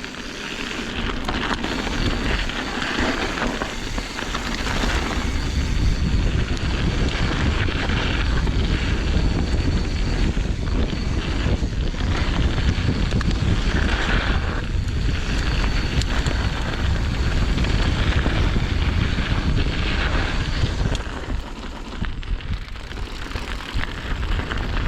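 Wind noise buffeting a camera microphone, with the rumble of a mountain bike rolling down a dirt trail; it eases off about 21 seconds in, then picks up again.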